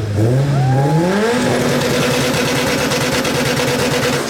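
2015 Subaru WRX STI's turbocharged flat-four engine revved hard through a loud aftermarket exhaust, rising quickly over about a second and a half and then held steady at high revs.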